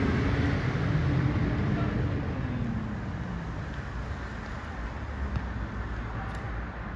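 A road vehicle driving past, its engine tone dropping in pitch and fading about two to three seconds in, over a steady outdoor noise haze.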